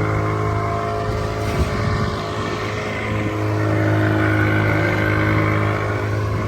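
Outboard motor on a small boat running at a steady cruising speed: a constant low engine drone with a steady hiss over it.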